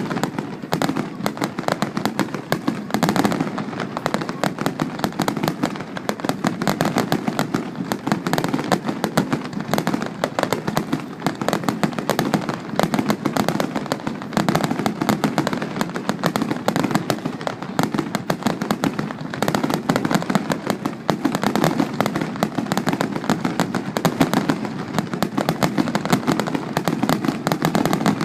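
Fireworks finale barrage: a dense, unbroken rapid-fire stream of bangs and crackles, many overlapping each second.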